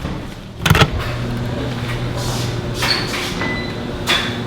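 A sharp knock, like a door or lid shutting, then a steady low mechanical hum of a running machine.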